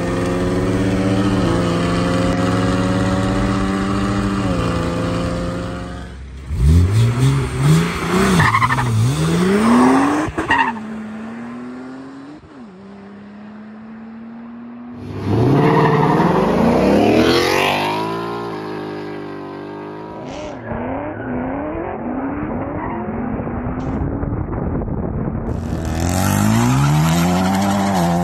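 Turbocharged cars racing at full throttle, a BMW N54 twin-turbo inline-six against a Ford Mustang EcoBoost, in several short clips: engine notes climb and drop back with each upshift. The first run is heard from inside a car pacing the Mustang; later runs bring loud, fast-rising revs as cars launch, with a quieter steady engine note between runs around the middle.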